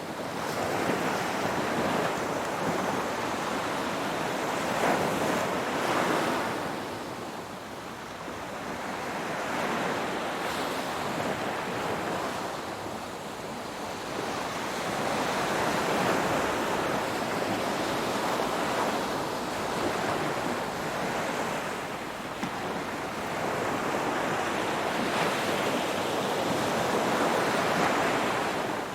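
Ocean waves breaking on a shore, a steady rush of surf that swells and ebbs every several seconds.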